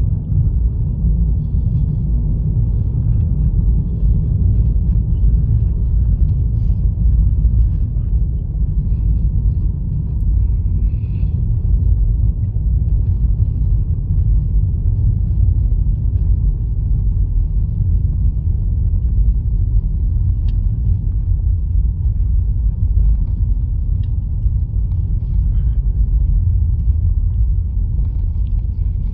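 Steady low vehicle rumble, even throughout, with its weight in the deep bass.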